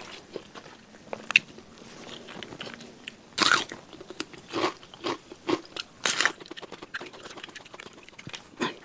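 Close-miked eating sounds of a man chewing a handful of rice and sambal taken with his fingers: irregular crunching and biting noises, loudest about three and a half seconds in and again about six seconds in.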